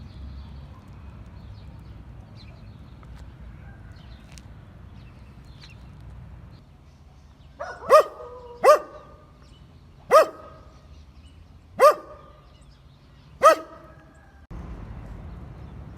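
A dog barking five times, single short barks about one to two seconds apart, over a low steady background hum.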